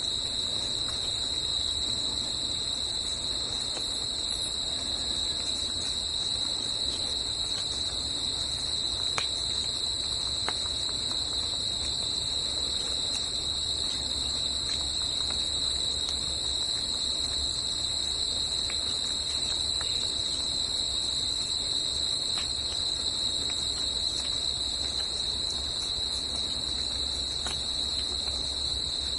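Forest insect chorus: a steady, unbroken high-pitched trill, with a soft low rumble beneath and a few faint ticks.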